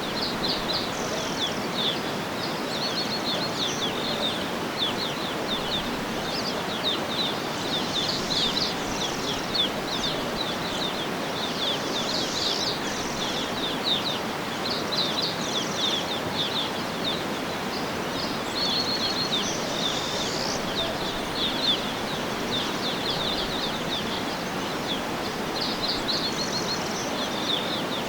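Several songbirds chirping and trilling continuously, with many short quick notes and fast repeated runs, over a steady even background rush.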